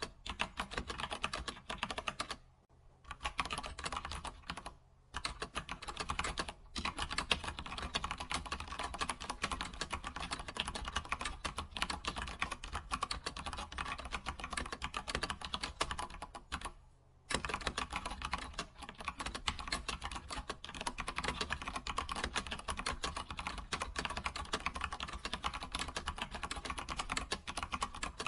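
Computer keyboard being typed on continuously, a fast stream of key clicks, with a few brief pauses, the longest about half a second near the middle.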